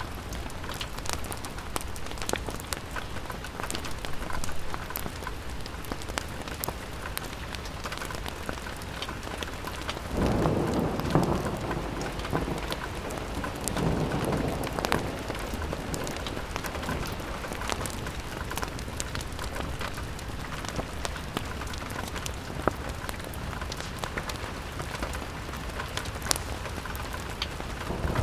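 Steady rain falling on a window, with many small sharp drop ticks, and a low rumble that swells about ten seconds in and again a few seconds later.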